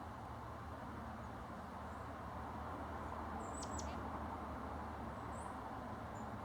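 A few high, thin songbird chips: two quick downward-sweeping ones about halfway through and fainter short ones near the end, over a steady low outdoor rumble.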